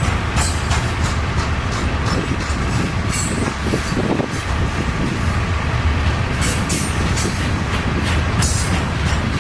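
Norfolk Southern freight train rolling past at speed: a steady heavy rumble with the wheels clacking irregularly over the rail joints.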